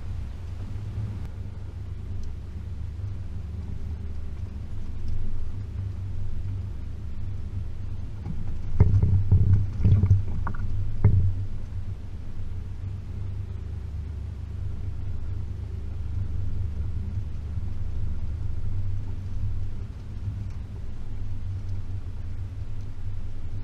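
Range Rover P38's 4.0 V8 engine running steadily at low speed while the vehicle drives along a rough track, with a few louder thumps about nine to eleven seconds in as it jolts over the ground.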